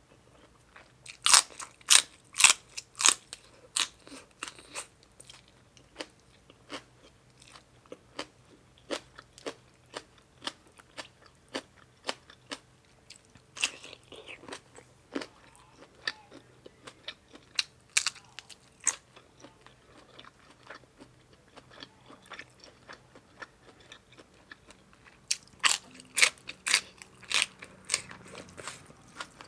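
A person biting and chewing crunchy food with the mouth close to the microphone: a steady run of sharp crunches, with louder bursts of biting about a second in and again near the end.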